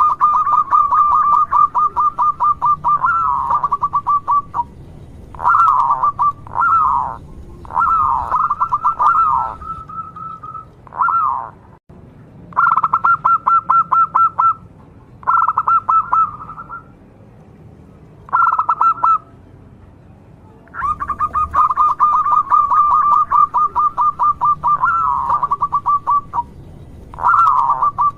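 Zebra dove (perkutut) cooing: phrases of rapid, pulsed, trilling notes with short pauses between them. A long run opens, several short bursts follow, and another long run starts about two-thirds of the way through.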